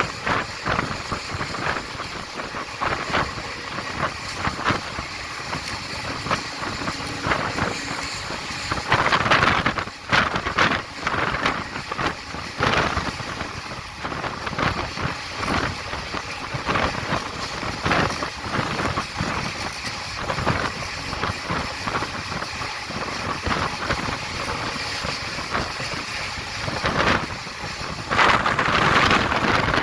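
Running noise of a passenger express train heard from on board: the wheels clatter and knock on the track over a steady rush of wind. The noise swells louder about nine seconds in and again near the end.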